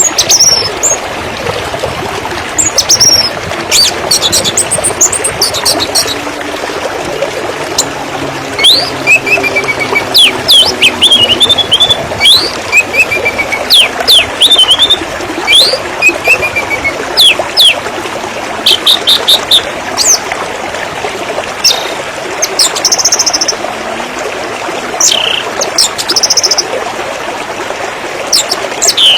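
Water running with a steady trickling, pouring sound, and small birds chirping over it in short high calls, quick rattling trills and rising notes, most busily through the middle.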